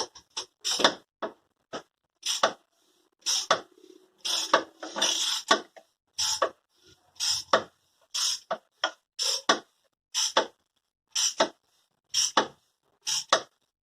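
Hand tool working on the crankshaft of a Ford Ka 1.0 three-cylinder engine as it is turned over by hand to find the timing mark: short metallic clicks and clacks in clusters about once a second.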